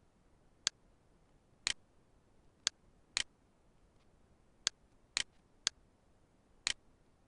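Computer mouse buttons clicking: eight sharp clicks about a second apart, four of them quick double clicks.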